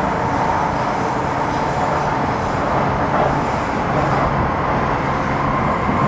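Running sound inside a Metro Cammell M-Train electric multiple unit with GEC GTO chopper traction control: a steady rumble of wheels on track with a steady whine running through it.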